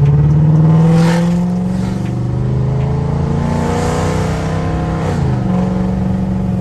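Dodge Charger R/T engine pulling hard under full acceleration, its pitch climbing for several seconds. It drops sharply at an upshift about five seconds in, then carries on in the next gear.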